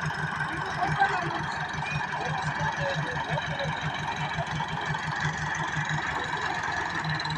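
Massey Ferguson 385 tractor's diesel engine running steadily, with an even low chugging pulse of about six to seven beats a second.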